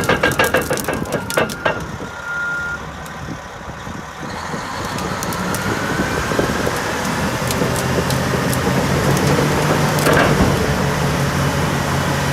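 Heavy diesel engines running. A rhythmic, knocking idle breaks off about two seconds in, then another engine's sound builds steadily into an even drone with a low steady pitch, with a sharp knock near the end.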